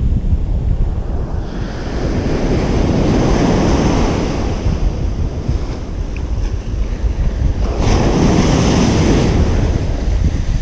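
Ocean surf breaking and washing up a beach. One wave builds and washes in over the first few seconds, and another crashes in suddenly about eight seconds in.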